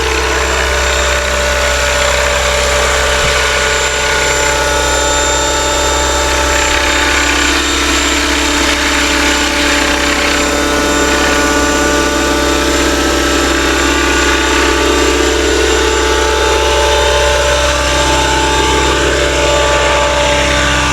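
Electric RC scale helicopter on Align T-Rex 550e mechanics stretched to 600 size, hovering: a steady whine from the motor and drive gears over the hum of the main and tail rotors, the pitch wavering slightly at times.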